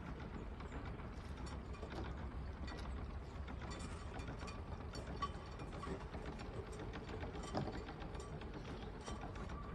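Irregular mechanical clicking and ratcheting over a steady low rumble.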